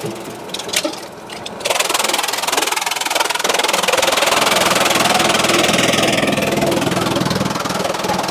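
Sawmill machinery running with a dense mechanical noise. It is quieter for about the first second and a half, then becomes loud and even.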